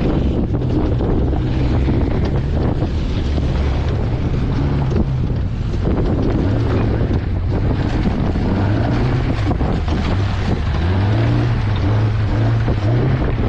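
A vehicle engine running under load as it drives, its note rising and falling repeatedly, with wind buffeting the microphone.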